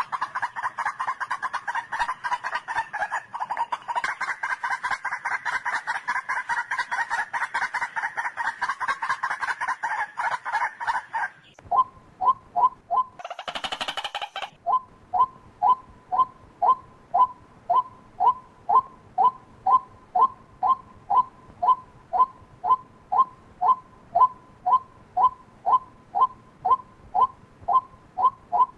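White-breasted waterhen calling: a dense run of harsh, overlapping calls for about eleven seconds, then a brief harsh burst, then a steady series of single short 'kwak' notes at about two a second.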